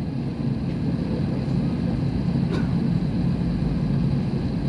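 Steady low drone of an Airbus A320neo's cabin before takeoff, with a brief faint click about halfway through.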